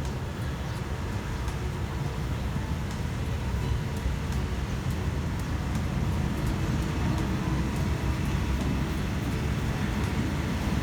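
Steady low rumble of a passenger train on the move, with faint scattered clicks over it, growing a little louder a few seconds in.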